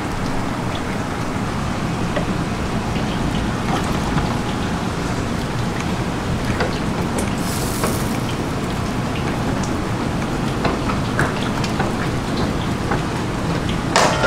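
Food sizzling in hot oil in a pan, a steady hiss with faint scattered clicks. A brief louder hiss comes about seven and a half seconds in.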